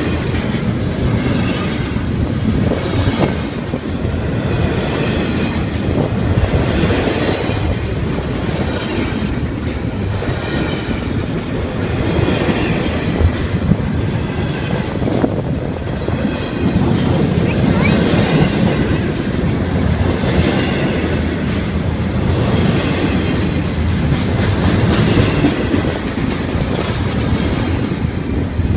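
Intermodal freight train passing close by: a steady rumble of steel wheels on rail, with a clickety-clack that comes round every couple of seconds as the cars' trucks cross the rail joints.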